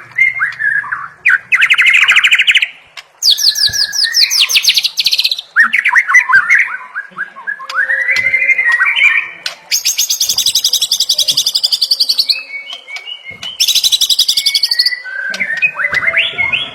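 White-rumped shama (murai batu) singing loudly and continuously. Slurred whistled phrases alternate with fast, dry rattling trills; the longest high trill starts about ten seconds in and lasts over two seconds.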